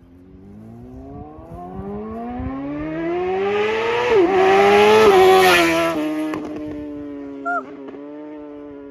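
Tuned 2020 Suzuki GSX-R750 inline-four with a slip-on exhaust, accelerating hard with its pitch and loudness climbing, a quick upshift about four seconds in, then revving again before the sound drops in pitch and fades as it pulls away.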